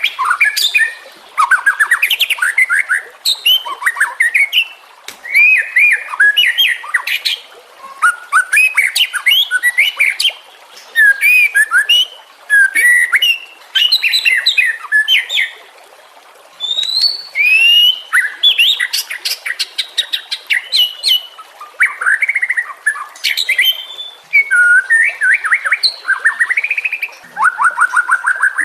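White-rumped shama singing a long, varied song: loud phrases of rising and falling whistles, sharp sweeps and fast trills, one after another with brief pauses. It is a tutor recording, used to teach other cage songbirds.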